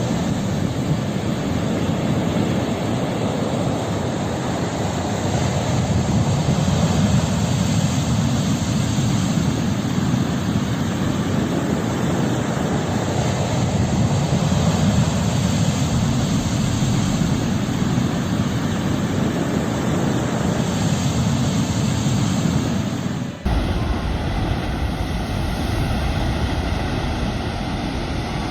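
Loud, steady rumbling roar of heavy surf with wind on the microphone, cutting abruptly about 23 seconds in to a deeper rumble.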